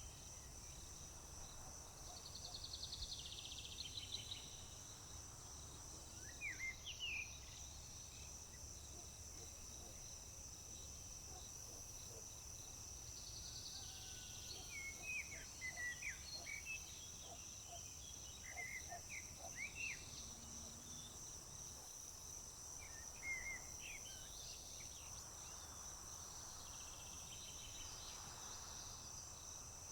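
Crickets trilling in a steady high-pitched chorus, with birds singing short phrases of quick chirps and trills every few seconds over it.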